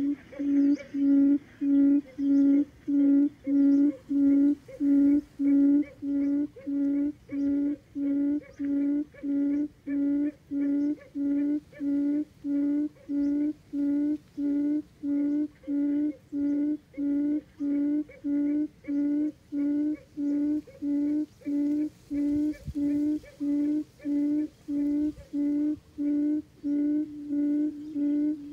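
Cút rừng (wild quail) calling: a long unbroken series of low, hollow hoots, about two a second, each held on one pitch.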